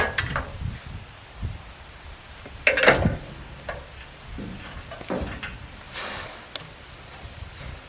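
A few scattered clunks and knocks, the loudest about three seconds in, like something being handled or a door shutting.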